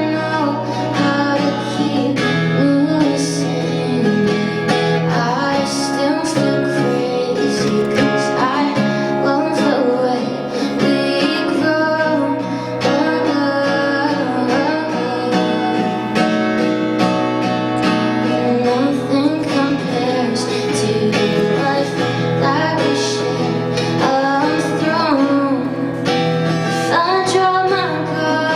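Live song: a woman singing over strummed guitar, continuing without a break.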